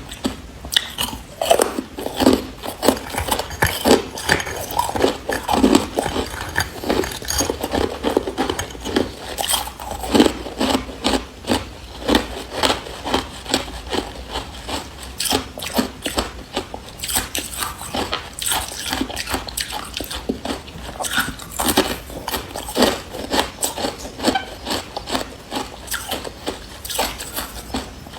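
Carbonated ice being bitten and chewed, a dense, irregular run of crisp crunches and cracks, several a second.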